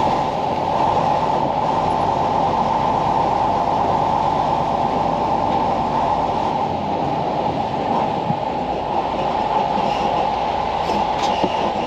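Semi truck heard from inside the cab, with a steady engine and road rumble. The deepest part of the rumble drops away about halfway through.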